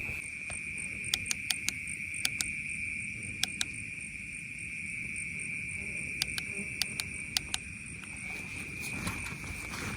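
Crickets trilling in a steady, unbroken high chorus, with a fainter, faster pulsing insect buzz above it. Scattered sharp clicks sound over it, bunched in the first few seconds and again about six to seven and a half seconds in.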